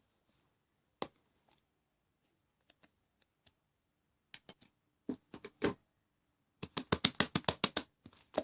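Yellow fluffy slime being played with by hand, making soft clicks and pops. These are scattered at first, then a quick run of about a dozen crackling clicks comes near the end.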